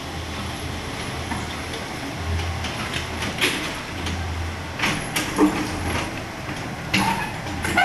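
Kobelco SK75 excavator running: a steady low diesel drone that swells several times as the machine works, with scattered metallic knocks and clanks.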